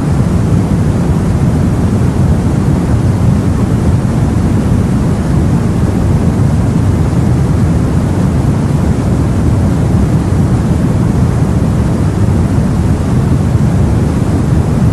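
Steady deep rumble of sea water and wind heard from aboard a boat, an even noise with no distinct wave breaks.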